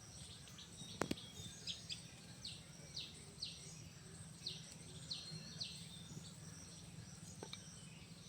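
Small birds chirping: a run of short, high, downward-sliding chirps, with a sharp click about a second in and a steady low hum underneath.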